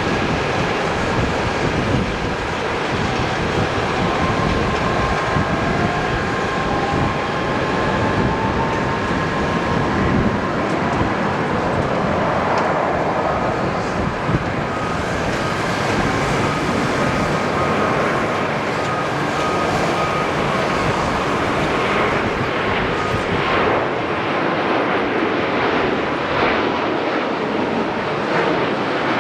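Jet airliner engines running: a steady, loud rush of noise with thin whining tones over it.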